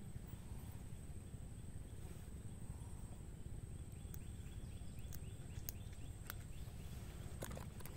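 Outdoor riverside ambience: a steady low rumble under a continuous high-pitched insect drone, with a few sharp clicks and a brief run of rapid chirps about halfway through.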